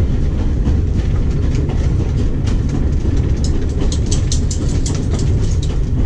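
Running noise inside a moving railway passenger carriage: a steady low rumble of the wheels on the track, with a run of light rattles and clicks in the second half.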